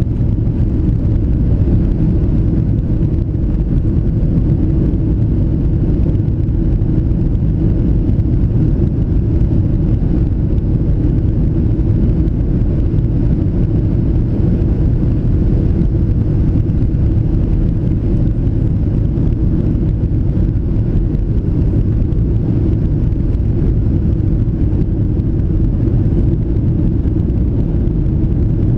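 Boeing 737-700 cabin noise in flight: a steady, loud low rumble of engines and airflow that holds even throughout.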